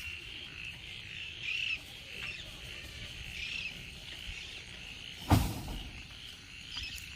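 Chorus of frogs calling steadily in rain-soaked paddy fields at dusk, a 'tru tru' croaking, with one sharp thump about five seconds in.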